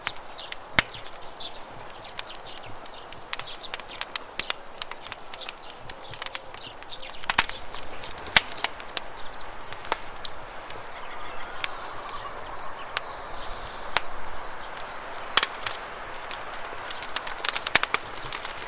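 Campfire crackling, with sharp irregular pops, over the steady rush of flowing river water. A bird's thin high call is held for a few seconds around the middle.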